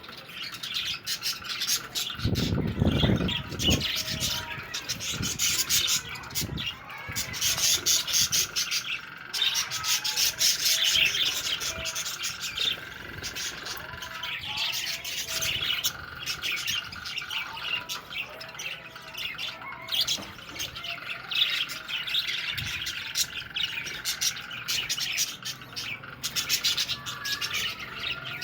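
A flock of budgerigars chattering, with dense rapid chirps and warbles, and a brief low rumble about two to three seconds in.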